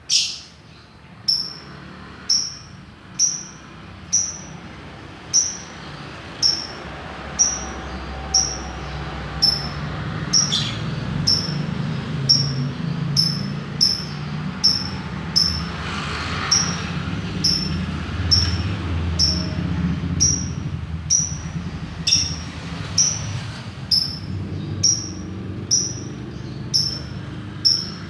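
A lakbet songbird giving its 'ngetik' ('typing') call: one short, sharp, high chirp repeated about once a second, evenly spaced and steady, over a low background rumble.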